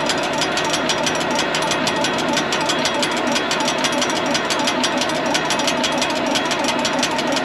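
Tractor's gasoline engine being cranked over on full choke, a fast, even mechanical chugging that does not catch: the engine is getting no fuel, which the owner later traces to a stuck fuel cutoff.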